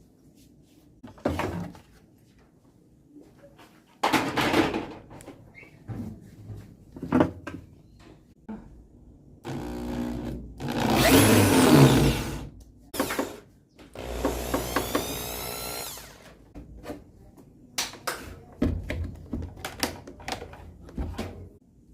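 A power drill running in short spells, its whine gliding up and down in pitch, loudest about ten to thirteen seconds in. Scattered clicks and knocks of metal and plastic parts being handled between the runs.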